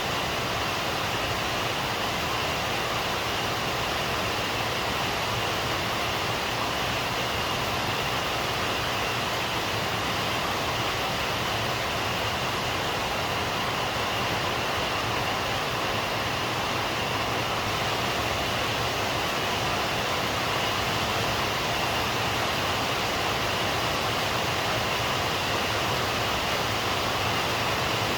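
Steady heavy rain, an even wash of noise with no thunder or separate drops standing out.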